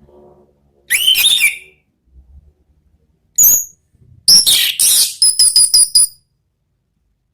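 Orange-headed thrush singing in separate phrases: a short phrase about a second in, a brief high note, then a longer phrase that ends in a quick run of repeated high notes.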